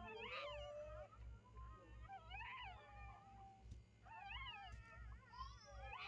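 Newborn puppies whining: about four faint high-pitched cries that rise and fall, with one long drawn-out whine in between.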